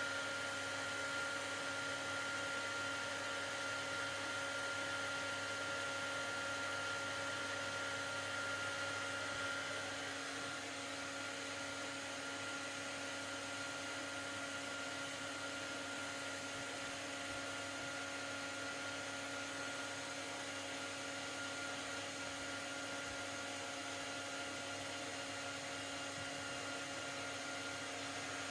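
Hair dryer running steadily, a motor hum with airflow hiss, easing slightly about ten seconds in.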